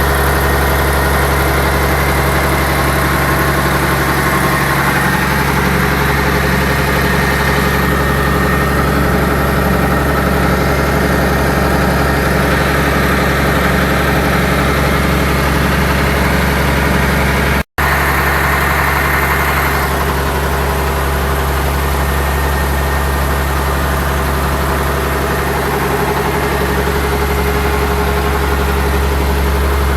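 CAT 250 hp diesel engine running steadily at a constant speed, driving a slurry pump, with a deep, even hum. The sound cuts out for an instant about two-thirds of the way through.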